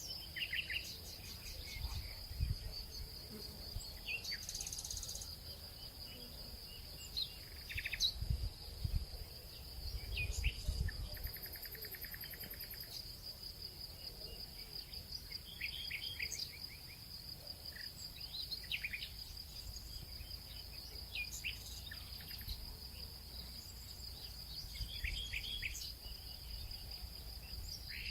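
Crickets trilling in one steady high note, with small birds chirping in short, quick phrases over it. A few dull low knocks come in now and then, loudest around eight to eleven seconds in.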